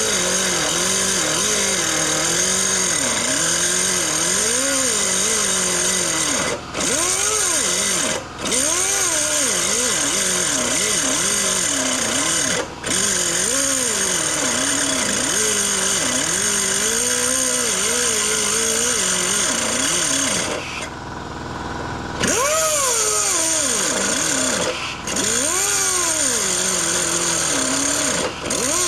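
Power tool cutting through steel, running continuously with its pitch rising and falling as the load changes. It breaks off briefly a few times, and for over a second about 21 seconds in.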